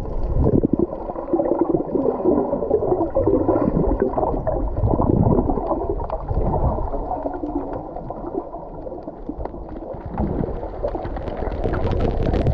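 Muffled water sloshing and gurgling around a camera in the sea, with irregular splashes and knocks as swimmers move through the water. The sound is dull, with little treble, as when a camera is at or under the surface.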